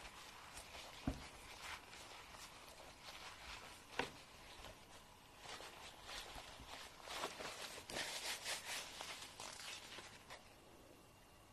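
A fingernail being filed: faint, irregular scratchy strokes, coming thickest about seven to nine seconds in. Two soft knocks fall about a second in and about four seconds in.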